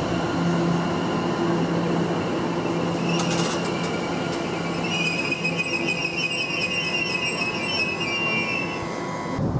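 London Overground Class 710 electric multiple unit running past: steady rumble of wheels on the rails with a low electric hum, a short run of clicks about three seconds in, and a high wavering wheel squeal from about five seconds in for several seconds.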